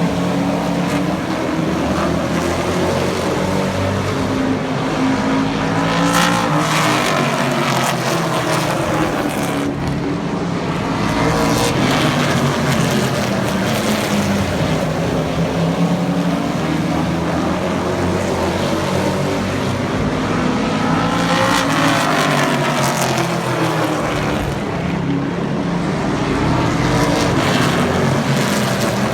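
Racing trucks' engines running around an oval track in a steady drone. The pack sweeps past twice, about fifteen seconds apart, each time rising and then falling in pitch.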